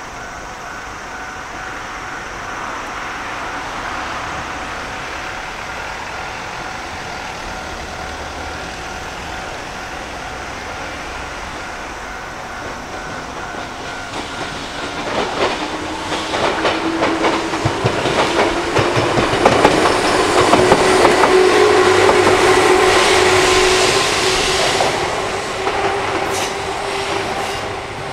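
Shizuoka Railway 1000 series electric train running past close by. It hums at first, then from about halfway the rapid clatter of wheels over rail joints and points grows loud with a steady whine, easing off near the end.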